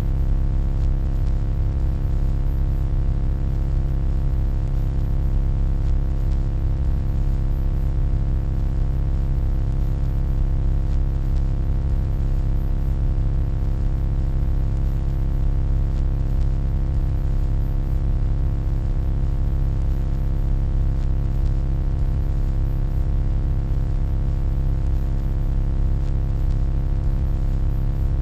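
Steady electronic hum, deep and unchanging, with a stack of faint steady tones above it and a light hiss.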